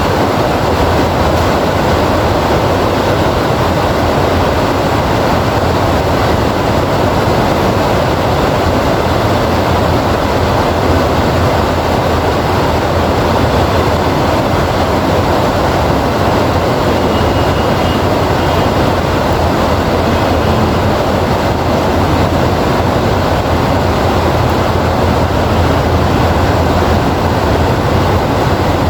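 Heavy rain falling steadily, an even, unbroken rush of noise with a low rumbling undertone.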